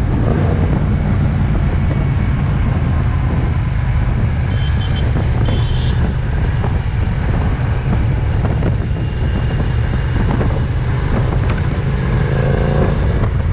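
Motorcycle engine running steadily on the move, with heavy wind and road rush over it.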